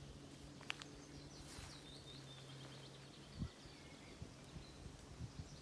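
Faint small birds chirping and twittering. Under them a low steady hum stops about three seconds in, and there are a few soft low thumps.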